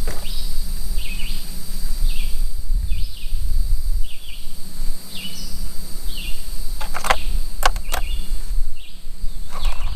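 Outdoor ambience: a bird repeats a short high call about once a second over a steady low rumble and a constant high whine. A few sharp clicks of tools being handled come about seven to eight seconds in.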